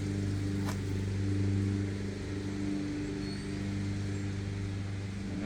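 Steady low mechanical hum, one unchanging pitch with its overtones, with a single faint click under a second in.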